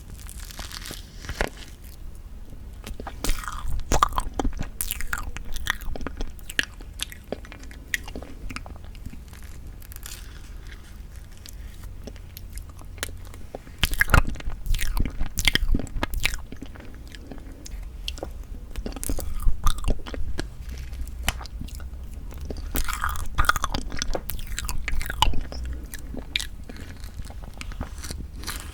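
Close-miked eating sounds of soft tofu tiramisu cake: chewing with many short wet clicks and smacks of the mouth, coming in clusters with brief lulls between bites.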